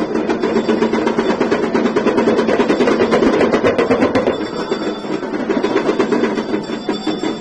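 Temple bells and drum beaten in a rapid, even rhythm, with the bells ringing on over the strokes.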